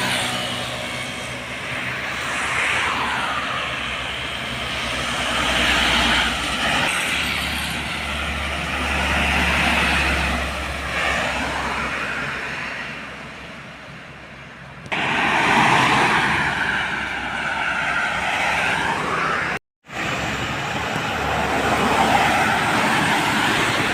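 Heavy trucks running and driving on a road, with engine noise that rises and falls in pitch. The sound changes abruptly about two-thirds of the way through and drops out for a moment shortly after, where separate clips are cut together.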